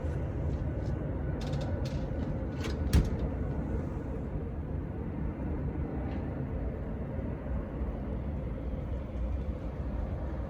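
City street ambience: a steady low rumble of traffic. A few sharp clicks or knocks sound in the first three seconds, the loudest about three seconds in.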